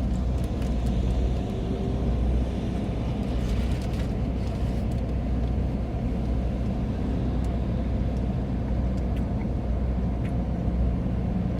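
Steady low rumble of an idling car, with a few faint clicks over it.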